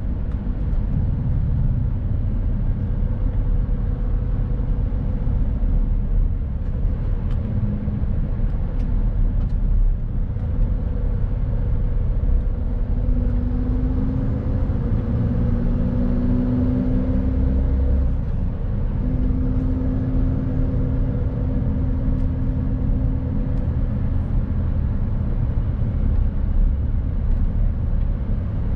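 Mercedes-Benz Actros truck's diesel engine running under way with steady road rumble. Around the middle a clear engine note comes up and holds for several seconds, drops out briefly and returns.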